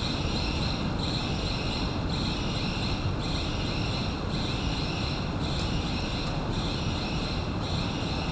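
Steady mechanical running noise as a high-speed train creeps slowly into a wash bay, with a high hiss that cuts in and out every second or two.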